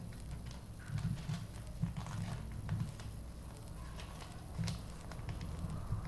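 Sheet of paper being handled and folded by hand: irregular dull knocks close to the microphone with light crackles of creasing paper.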